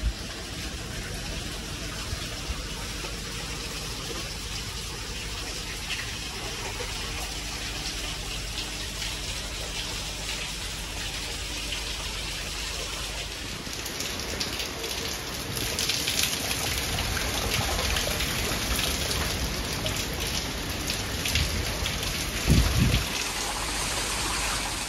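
Heavy cyclone rain falling steadily on a flooded yard, growing louder about halfway through. Near the end there is a brief low thump.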